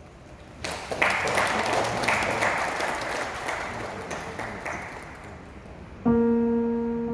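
Audience applauding, starting about a second in and fading away; about six seconds in, a piano begins playing, striking a chord and carrying on.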